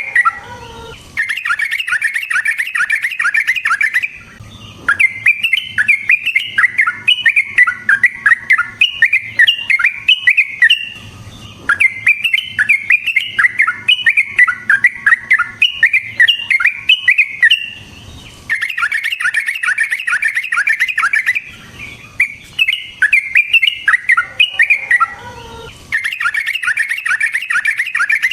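Yellow-vented bulbul (trucukan) singing loudly in long runs of rapid, bubbly notes, in bouts of several seconds split by short pauses. It is the fast rolling song a male uses to challenge a rival.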